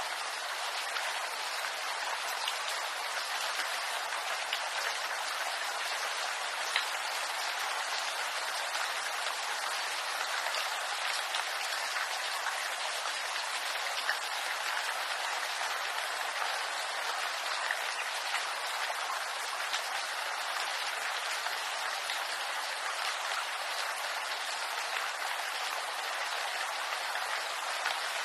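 Steady rain falling on bamboo leaves: an even hiss of drops with the odd louder drop ticking out.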